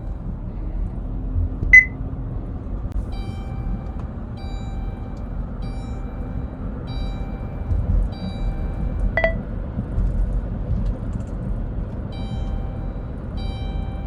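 Repeated electronic warning chime, about one ding a second, pausing for a few seconds midway, over the low rumble of a running vehicle. Two sharp pings stand out, one near the start and one in the middle.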